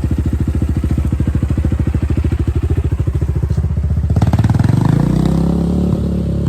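10ten 250cc dirt bike engine running at a steady, pulsing idle, then the revs rise about four seconds in and hold higher as the rider pulls away.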